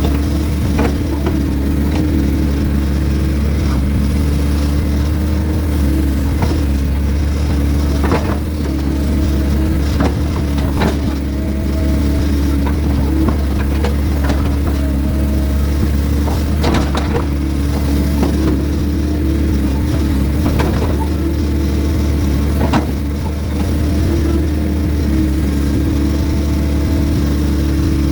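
Heavy diesel engine of logging equipment running steadily, with a series of short knocks and clunks at irregular intervals.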